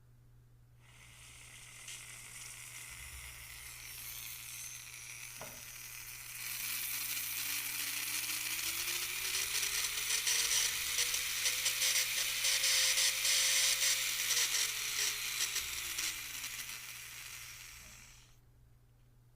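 Handpiece of a Strong electric manicure drill running. Its high-pitched hissing rattle is joined by a motor whine that rises steadily as the speed is turned up, holds, then falls away as it is turned down, before the drill stops. There is one click a few seconds in.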